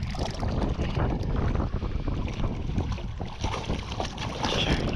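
Wind buffeting the microphone on an open boat, a steady low rumble with irregular gusty flutter over the noise of the water.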